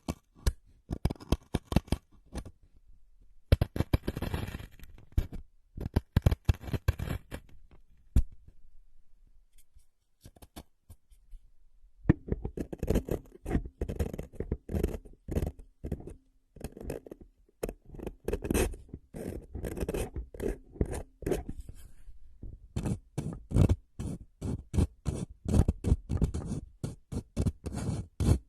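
Close-miked ASMR trigger sounds: runs of rapid, crisp clicks and snips. There is a short pause about three seconds in and a longer one from about 8 to 12 seconds, and the clicks come faster and denser towards the end.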